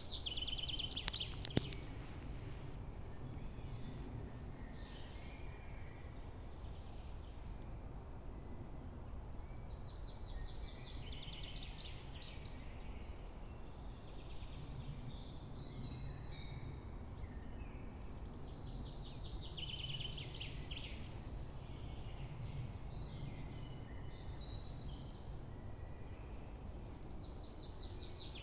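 Songbirds singing in a forest, with repeated phrases and rattling trills coming every few seconds, over a steady low rumble. A single sharp click sounds about a second and a half in.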